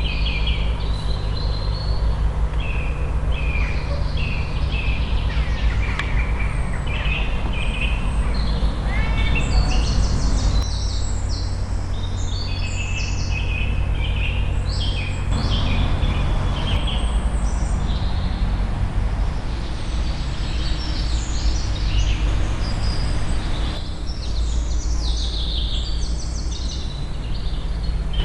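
Songbirds singing, with many short chirps and trills throughout, over a steady low rumble.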